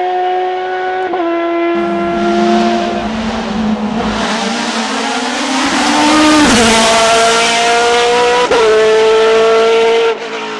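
Hill-climb race car engine at full throttle, rising in pitch between quick upshifts about a second in, around six and a half seconds and about eight and a half seconds in, with a loud rush of noise as the car passes close around the middle.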